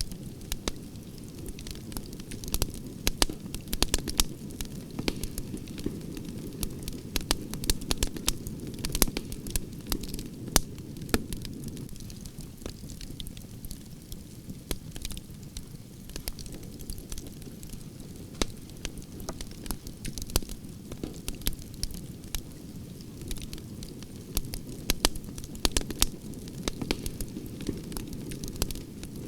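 Wood branches burning in a campfire: a steady low rush of flames with sharp, irregular crackles and pops, more frequent in the first half and again near the end.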